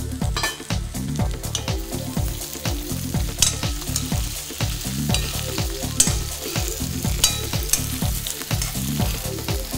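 Diced potatoes sizzling in hot oil in a kadai while a long-handled metal spoon stirs and scrapes them around the pan. The stirring comes in repeated strokes, two to three a second, over a steady sizzle.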